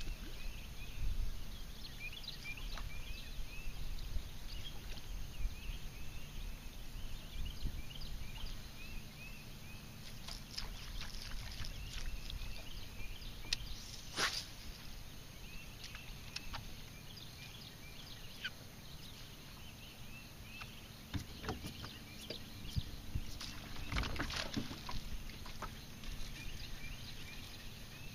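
Birds calling in short repeated chirps over a low rumble, with a couple of sharp knocks, one about halfway through and one near the end.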